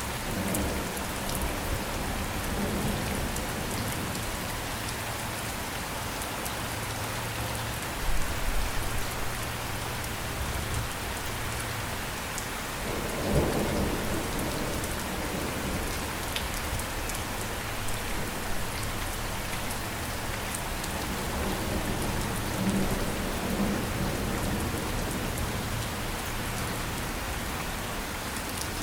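Steady rain falling, with low rolling rumbles of thunder that swell louder about eight seconds in and again about thirteen seconds in.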